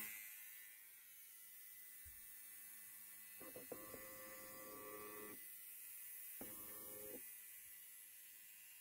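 An electric hair trimmer's buzz dies away in the first second, leaving near silence with a few faint, brief hums.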